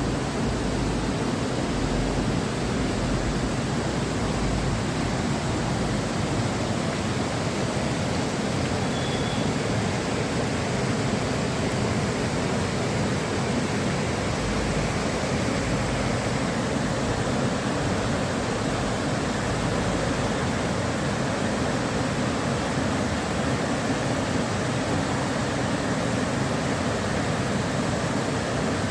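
Satluj river water flowing, a steady unbroken rush of water noise.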